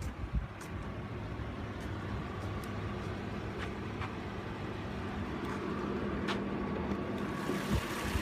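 2016 Audi A8L's 3.0-litre supercharged V6 idling steadily, with a few light clicks and a short knock about half a second in and another near the end.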